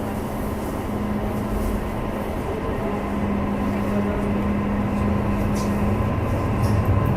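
Interior running noise of a JR E233-3000 series electric train: the steady hum of its IGBT-VVVF traction equipment over rumbling wheel and rail noise, getting louder toward the end.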